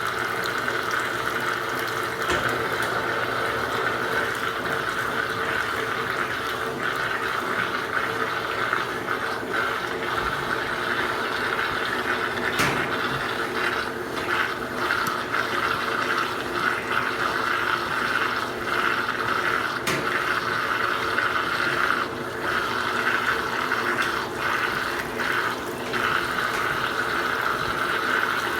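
Washing machines draining: water rushing steadily out through the drain pump, with the pump and motor humming underneath.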